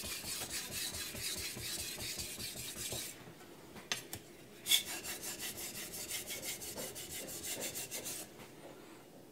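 A carbon-steel knife blade being stroked quickly back and forth across a wet 1000-grit Kramer by Zwilling glass whetstone, a rasping scrape several times a second. The strokes stop about three seconds in, with two sharp clicks, then resume more softly and stop near the end.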